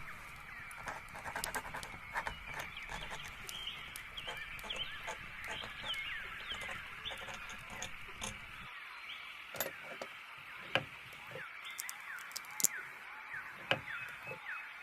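Small songbirds chirping in a dense, continuous chorus of short quick calls, with scattered sharp clicks among them.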